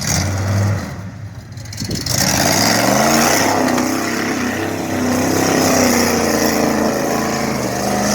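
Engine of a 5-ton military truck running, then revving up from about two seconds in, its pitch rising and falling and holding loud through the rest.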